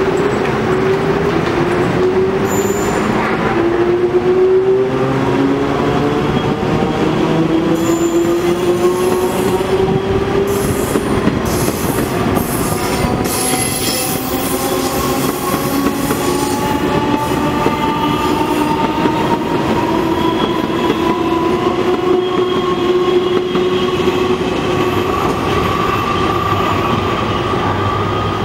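Taiwan Railways EMU300 Tze-Chiang electric multiple unit accelerating: its DC series-wound traction motors give a low whine that climbs steadily in pitch as the train gathers speed. A run of clicks comes through about a third of the way in.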